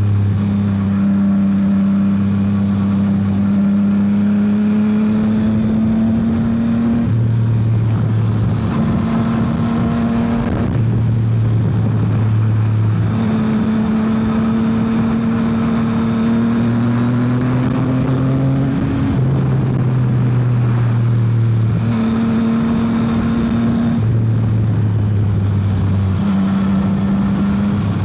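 Yamaha XSR900's inline three-cylinder engine running under way, its note slowly rising and then stepping up and down every few seconds as the rider shifts gears and rolls the throttle on and off. Wind rushes steadily underneath.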